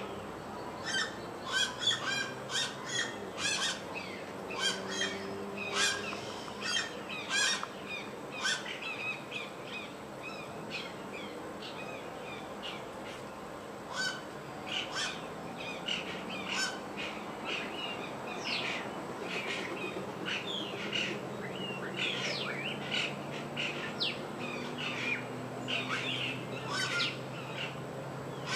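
Several wild birds chirping and calling at once, a dense run of quick, sharp notes that thins out in the middle and picks up again.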